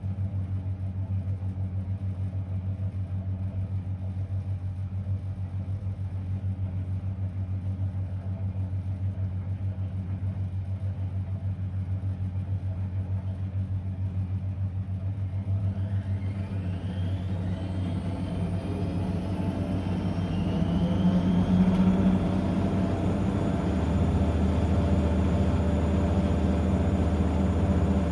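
Blomberg WA391 washing machine running with a steady low hum. About halfway through, the drum motor spins up with a rising whine that levels off into a louder, steady spin.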